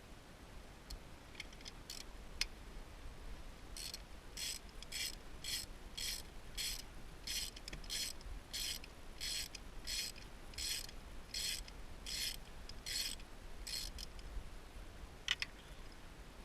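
Ratchet wrench with a spark plug socket being worked back and forth on a spark plug. The pawl rasps in a regular series of short strokes, about two a second. A few single clicks come before the run, and a sharper click comes near the end.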